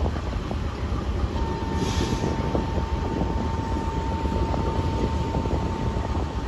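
Train rolling along the rails with a steady low rumble and scattered wheel clicks, and a thin, steady high-pitched squeal that starts about a second and a half in and holds.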